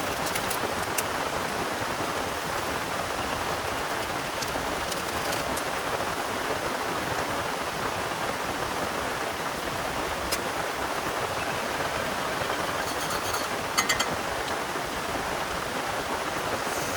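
Heavy rain falling steadily, with a few sharp drop taps about ten and fourteen seconds in.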